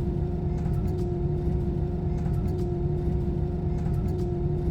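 Airbus A320 engines at idle heard inside the cabin during the slow taxi to the runway: a steady low rumble with a steady hum.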